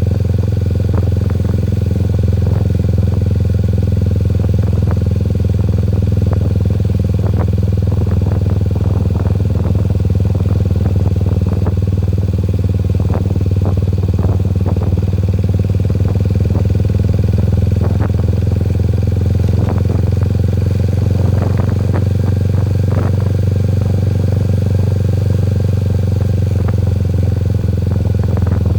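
Vehicle engine running steadily at an even speed, with scattered light rattles and clicks.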